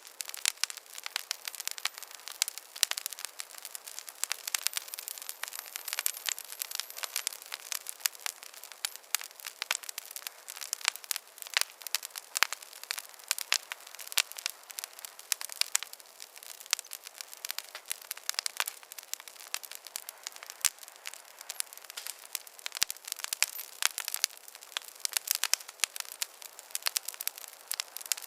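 Campfire crackling: a dense, irregular run of small sharp pops and snaps, several a second, over a soft hiss of burning wood. The sound is thin and bright, with no low rumble.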